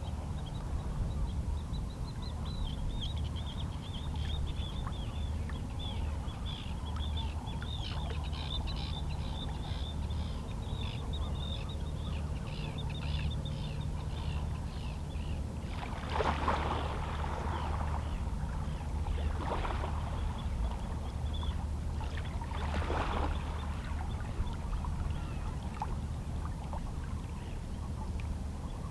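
Calm sea with small waves lapping against shoreline rocks over a steady low rumble, and three louder splashes a little past halfway. Seabirds give rapid, high chattering calls through the first half.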